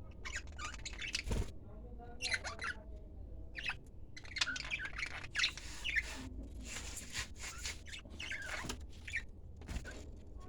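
A pet bird chirping and squawking: short, high calls coming in quick clusters with brief gaps between them.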